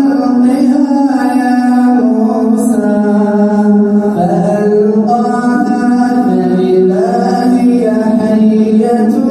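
A man reciting the Quran in melodic tajwid style, holding long ornamented notes that glide up and down in pitch without a break.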